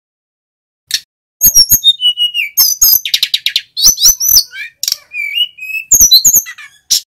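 Male sikatan gunung (mountain flycatcher) singing a loud, varied song of high whistles, sharp chirps and gliding notes with a fast trill in the middle, starting about a second in.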